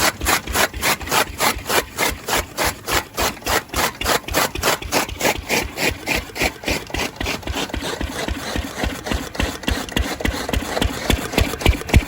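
Old stationary engine driving a fodder chaff cutter, running with a steady, even beat of about three to four pulses a second.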